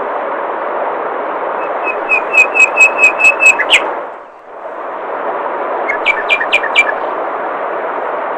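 Steady rush of flowing water with a bird singing a fast run of repeated short whistled notes, about two seconds in and again about six seconds in. The water sound dips away briefly and comes back in between.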